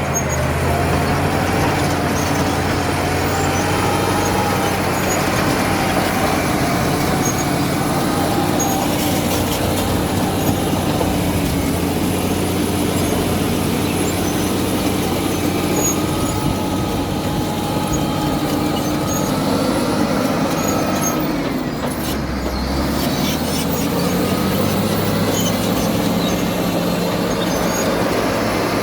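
Cat D7 bulldozer's diesel engine running steadily under work, with a wavering whine above the engine note. About three-quarters through, the sound briefly eases and deepens before it picks up again.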